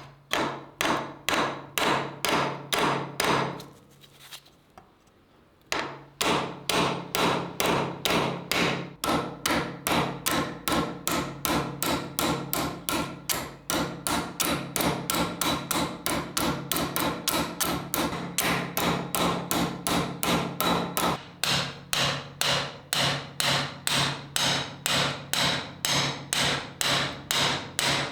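Steady, rapid hammer blows on metal, about three strikes a second, with a pause of about two seconds near the start.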